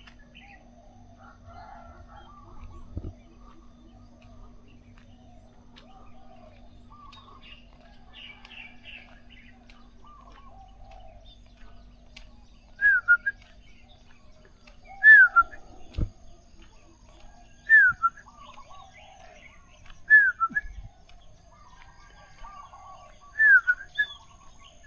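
Birds chirping faintly, then about halfway through one bird calls loudly five times, a short falling whistled note every two to three seconds.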